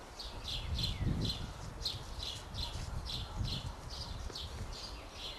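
A small bird chirping over and over, about two short falling chirps a second, over a low rumble.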